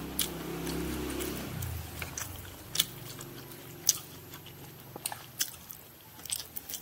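A man chewing a mouthful of fried rice vermicelli with chopsticks, close to the microphone: wet mouth clicks and smacks scattered through, and a cluster of clicks near the end as he takes in another mouthful of noodles. A low steady hum runs under the first second and a half.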